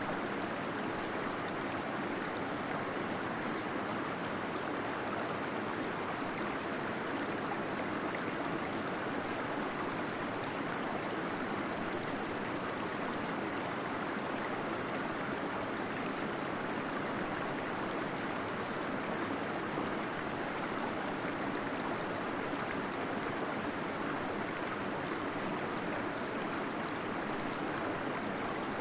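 A small waterfall in a cave, water falling and flowing in a steady, unbroken rush.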